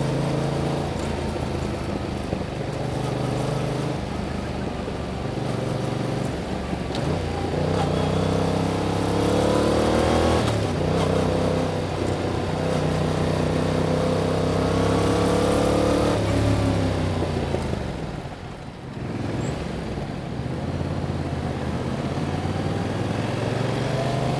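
Yamaha MT-07's 689 cc parallel-twin engine through its stock exhaust, revving up through the gears with a rising pitch and a shift about ten seconds in. It climbs again, then falls in pitch as the throttle closes, dips briefly, and settles into a steady run.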